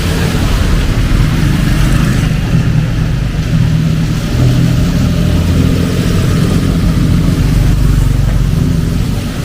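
A motor vehicle's engine running close by in street traffic, a steady low hum with an even hiss of rain and tyres over it.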